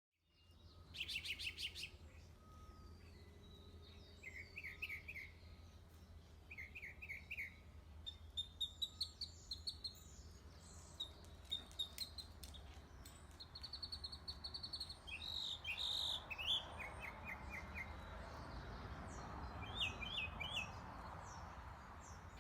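Small birds chirping and singing: quick runs of chirps and short trills throughout, over a faint steady low rumble.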